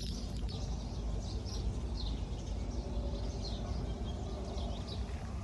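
Small birds chirping in short repeated calls over a steady low rumble.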